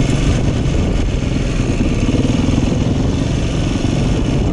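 Dirt bike engine running at low, fairly steady revs, with a rough rumble underneath.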